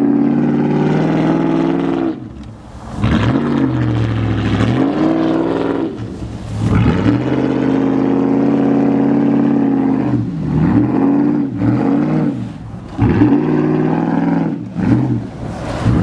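Pickup truck engine revving hard in repeated bursts, the pitch climbing and dropping several times, as the truck works to get free of deep snow.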